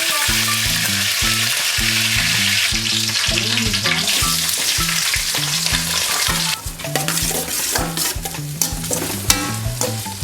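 Onions and curry leaves sizzling loudly as they fry in hot coconut oil in a steel pan, with a steady crackling hiss throughout.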